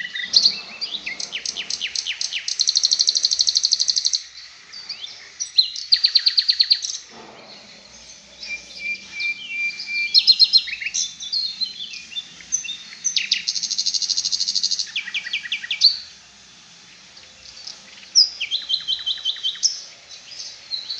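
A songbird singing in bursts of rapid, repeated high notes and fast trills, with short pauses between phrases. This is the 'tembakan' (rapid-fire) kind of song that Indonesian keepers play to teach caged songbirds.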